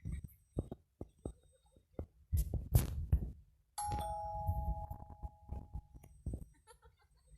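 Doorbell chime sounding two descending notes, ding-dong, about halfway through, among a scatter of muffled thuds and knocks, the heaviest just before the chime.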